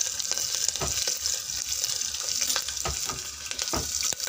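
Peanuts and green chillies sizzling steadily in hot ghee in a pressure cooker, while a spoon stirs them and knocks against the pot about four times.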